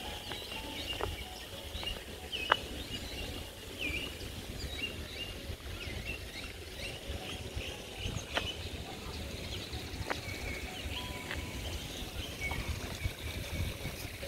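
Many small birds chirping, with quick, high calls overlapping throughout, over a low steady rumble and a few sharp clicks.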